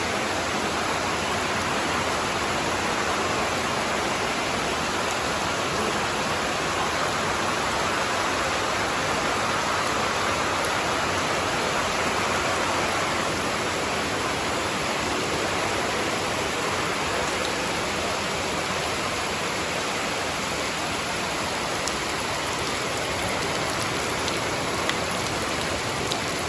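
Rain falling steadily and evenly, without let-up.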